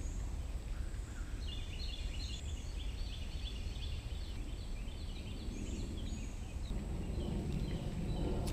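A bird singing a long run of quick, repeated chirping phrases, over a low steady rumble.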